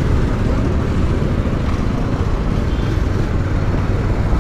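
Steady motorcycle riding noise: engine and wind on the microphone, with road traffic around.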